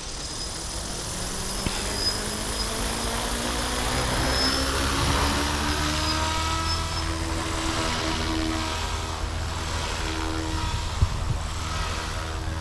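GooSky RS4 electric RC helicopter, a 400-size with a direct-drive brushless motor, spooling up. The motor and rotor whine rises in pitch over the first several seconds, then holds steady at flight speed.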